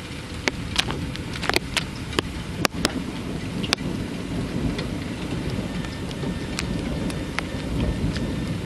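Thunderstorm: steady rain with sharp drops ticking close by in the first few seconds. A low rumble of thunder swells through the second half.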